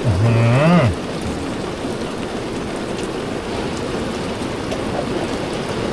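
Steady heavy rain throughout, and right at the start a single short cow moo, under a second long, rising then falling in pitch.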